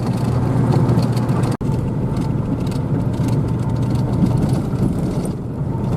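Steady engine hum and road noise of a vehicle being driven, with one very brief dropout about a second and a half in.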